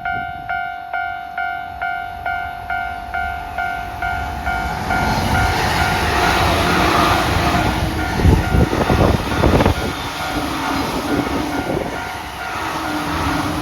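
Japanese level-crossing warning bell dinging about twice a second as an electric commuter train passes at about 108 km/h. The rush of the train builds from about four seconds in, with a run of heavy wheel thumps about eight to ten seconds in, while the bell keeps ringing.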